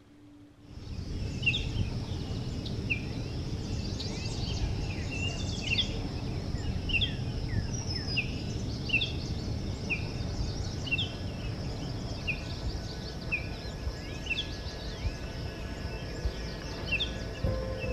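Outdoor ambience: a small bird chirping over and over, short sharp calls about once a second, over a steady low rumble and a thin high hiss.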